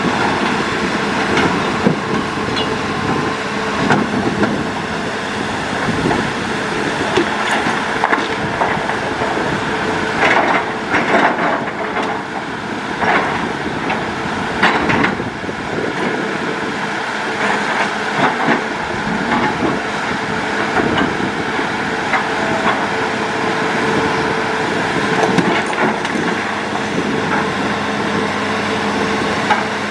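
Hitachi Zaxis hydraulic excavator running steadily under work, with scattered knocks and clatter throughout.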